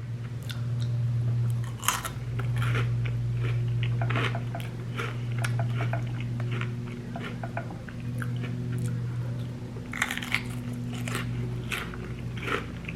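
Close-up crunching and chewing of crunchy Cheetos chips smothered in queso and sour cream, many sharp crunches through the stretch, over a steady low hum.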